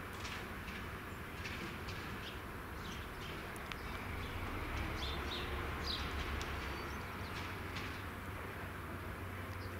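Scattered short bird chirps over a low steady hum that grows a little louder around the middle.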